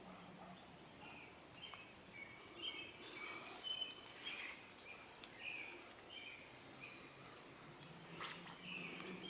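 Faint outdoor ambience with scattered short bird chirps, irregular and varying in pitch, and a couple of sharp clicks near the end.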